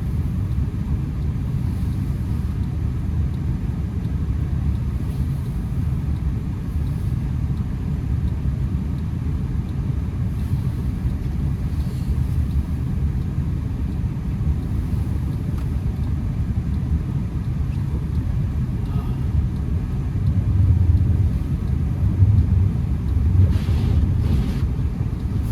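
Honda Accord driving on a snow-covered road, heard from inside the cabin: a steady low rumble of engine and tyres, swelling a little about twenty seconds in.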